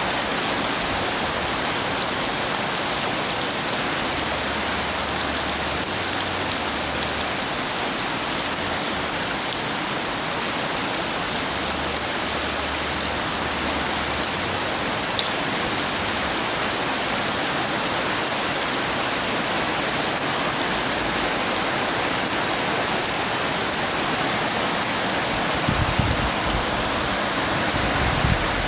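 Heavy rain falling steadily, a dense even hiss of drops on surfaces, with a brief low rumble near the end.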